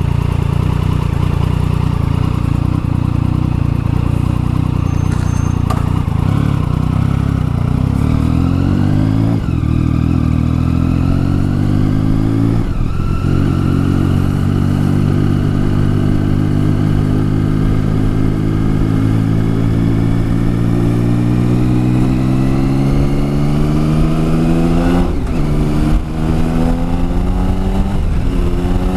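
Triumph Tiger 1050's three-cylinder engine, fitted with a new exhaust, running steadily at low speed, then pulling away and climbing through the gears. The note rises and drops at a gear change about nine seconds in and again around thirteen seconds, climbs slowly for a long stretch, and drops at another shift about four seconds before the end.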